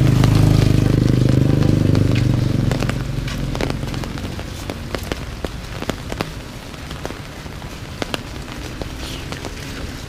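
A motor vehicle's engine passing and fading away over the first two or three seconds, over steady rain. After that the rain carries on, with many sharp separate drop ticks.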